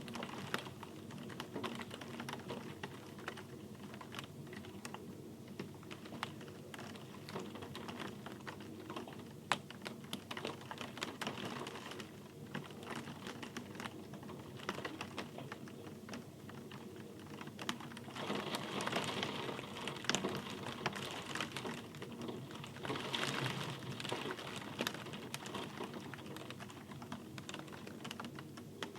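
Rain falling as a dense, irregular patter of separate drops ticking on a hard surface, with two heavier swells about eighteen and twenty-three seconds in.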